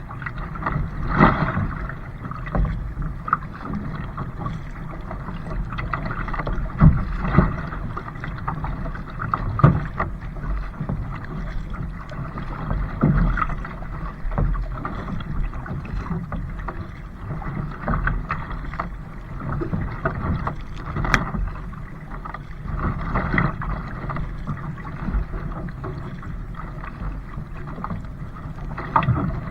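Water splashing and sloshing around a kayak, with irregular louder splashes over a steady low rumble.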